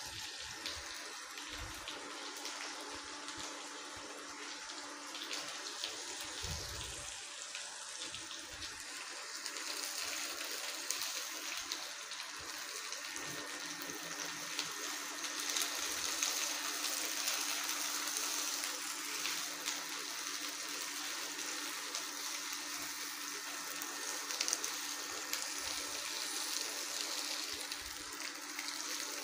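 Tomatoes, red chillies, onion, garlic, cashews and sesame seeds sizzling in a little oil in a pot on low heat: a steady hiss with faint crackles, growing a little louder about a third of the way in. A spatula stirs through them now and then.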